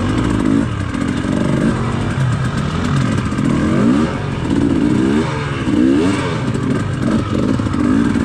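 Dirt bike engine revving up and down in short throttle bursts, its pitch rising and falling over and over, as the bike picks its way down a rocky trail.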